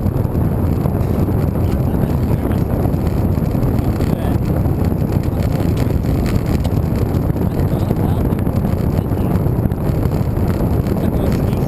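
Steady, loud wind rush buffeting the microphone of a camera riding along on a moving road bike, deep and even with no breaks.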